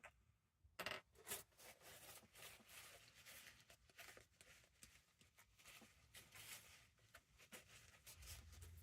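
Faint rustling of paper and fabric being handled, with small clicks and taps, a couple of them louder in the first second and a half. A low hum comes in near the end.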